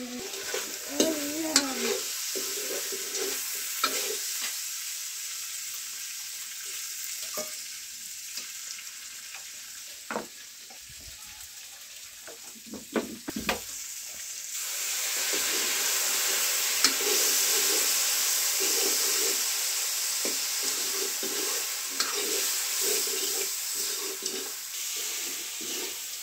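Food sizzling in a hot pan while it is stirred, with scattered scrapes and clicks of the stirring utensil. The sizzle grows louder about halfway through.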